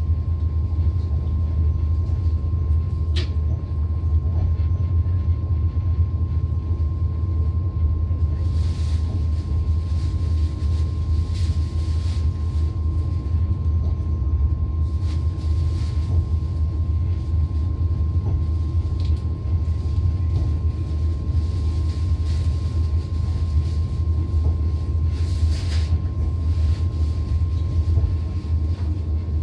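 Inside a moving Thai special express train's passenger coach: the steady low rumble of the wheels running on the rails, with a faint steady tone above it and a few faint clicks and rattles.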